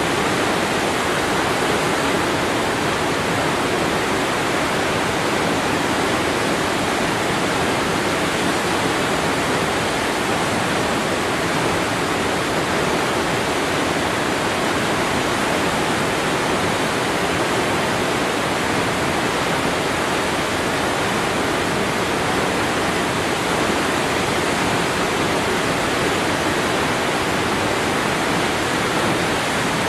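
Waterfall: falling water pouring with a steady, even rush of noise, unchanging throughout.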